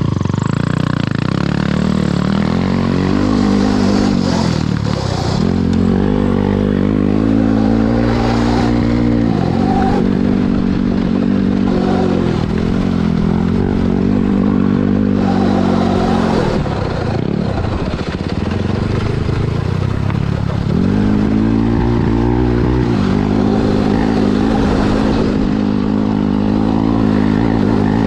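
Honda CRF450 single-cylinder four-stroke dirt-bike engine in a Barbie jeep, revving up and dropping back again and again as it is driven hard. The revs sag for a few seconds past the middle, then come back up.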